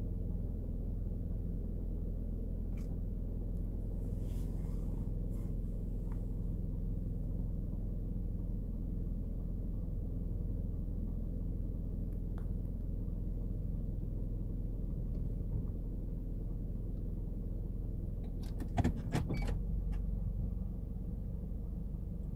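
Car engine idling steadily, heard from inside the car's cabin as a low even hum. A short cluster of sharp clicks comes near the end.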